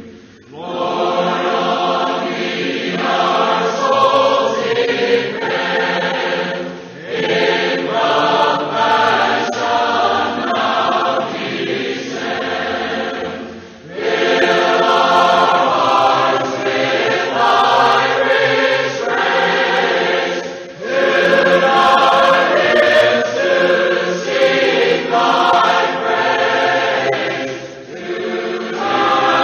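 Choir singing a hymn in several voices, in long phrases with short breaths between them about every seven seconds.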